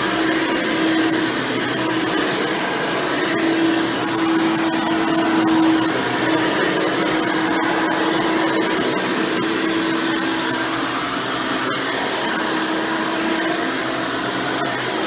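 Hoover Elite Supreme upright vacuum with a 20-blade fan motor running steadily while cleaning, its brush roll beating the floor, with a steady hum and a few sharp clicks.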